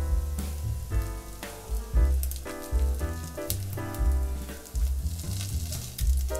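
Food sizzling and crackling as it fries in hot oil in a pan, over background music with a bass line.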